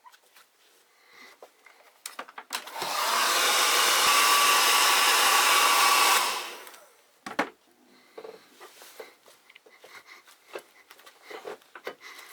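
Handheld hot-air blower running steadily for about three and a half seconds, then winding down. Scattered knocks from handling come before and after it.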